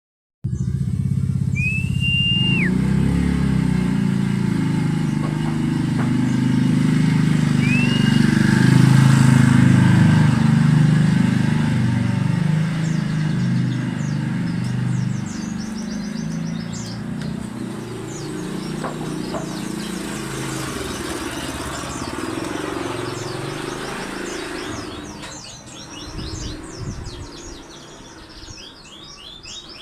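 A motorcycle engine running, then fading out about 25 seconds in. Small birds chirp in quick repeated high notes that become clearer near the end. Two short rising whistles come about two and eight seconds in.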